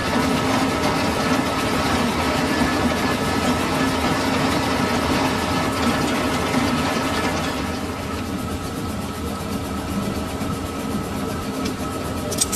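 Metal-turning lathe running as it turns a silage-machine head roller: a steady mechanical hum with a rough, grinding hiss over it. The hiss thins out about eight seconds in, and a short click comes near the end.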